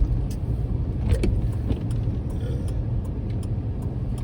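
Steady low rumble of a car's engine and road noise heard inside the cabin while driving, with a few faint scattered clicks.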